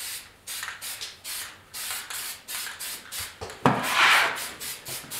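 Sandpaper rubbed by hand back and forth over the bodywork of a Yamaha RS100 motorcycle fuel tank, in quick strokes about two a second, with one longer, louder stroke near the end.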